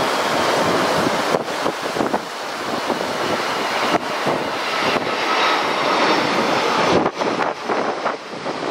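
Airbus A330-300 airliner's GE CF6 turbofan engines passing low on landing approach, mixed with wind buffeting the microphone. The jet noise builds to its loudest about seven seconds in, then falls away.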